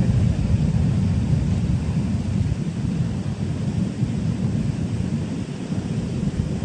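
Low, uneven rumbling noise with no clear pitch or rhythm, easing slightly about halfway through.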